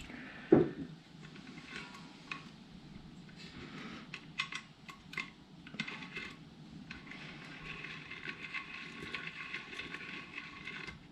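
Light metallic clicks and clinks of small parts and tools being handled during work on the wheel hub's speedometer gears, with one sharp thump about half a second in.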